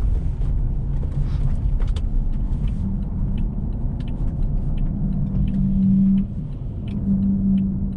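Car driving slowly over a snow-covered road: a steady low rumble of tyres and engine, with scattered faint ticks and a steady hum that comes in for a while in the second half.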